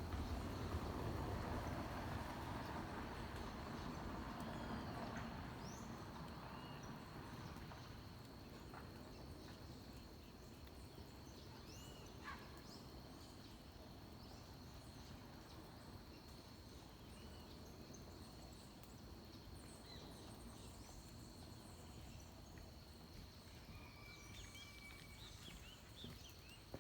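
Forest dawn chorus with a steady high insect drone and scattered short bird calls. Beneath them is a low, even rushing background that fades away over the first ten seconds or so.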